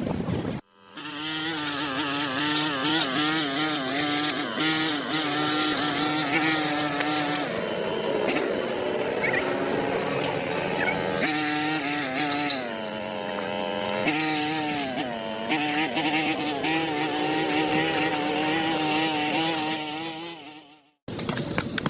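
A small engine running steadily for about twenty seconds, its pitch wavering up and down, starting and stopping abruptly.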